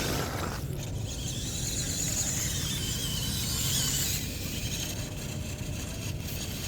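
Electric motor and gearbox of an MN99S (D90) RC off-road truck whirring as it drives, with the high-pitched whine easing off about four seconds in.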